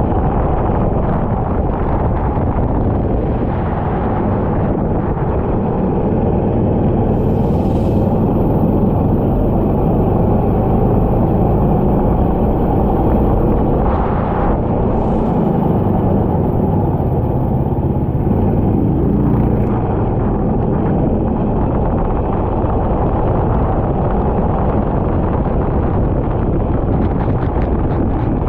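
Kart engine running at speed, its note rising and falling, with heavy wind and track noise over an onboard camera.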